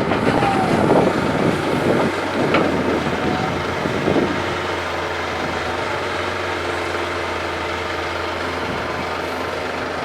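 Heavy diesel engine running steadily under the rough crunching and rattling of soil and stones, which stops about four seconds in and leaves the engine drone alone.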